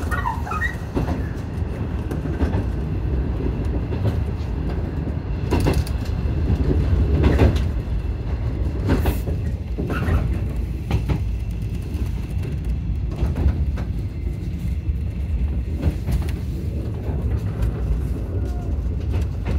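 Shinano Railway 115 series electric train, heard from inside its front cab while running: a steady low rumble with irregular clacks of the wheels over rail joints and points.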